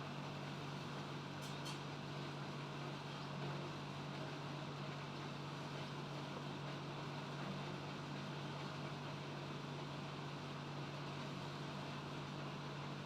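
Steady low mechanical hum over an even background hiss, with two faint ticks about a second and a half in.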